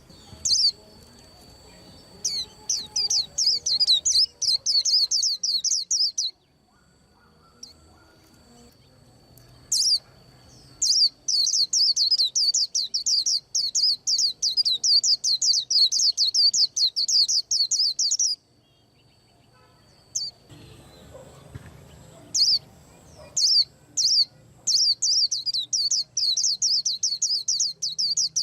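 A white-eye singing: long runs of rapid, high down-slurred chirps, in three bouts separated by pauses of a few seconds.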